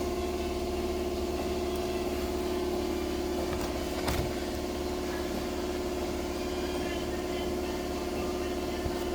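A steady droning hum with a constant pitch, like a small motor or engine running, and a short knock about four seconds in.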